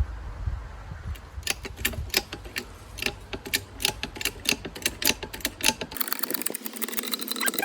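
Rapid, irregular metallic clicking, several clicks a second, from the jack-driven press as it forces a new rubber-bushed hub into a boat propeller. Near the end the sound changes abruptly to a steady hiss with a high whine.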